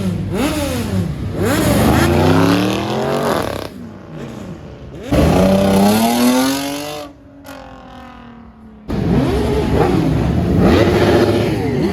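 Car engines revving and accelerating. There are a few quick revs rising and falling at first, then long rising pulls as cars accelerate away. The sound changes abruptly about five and nine seconds in.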